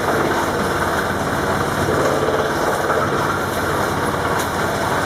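Electric-driven stationary drum wood chipper running, a loud steady mechanical noise with a dense, irregular rattle.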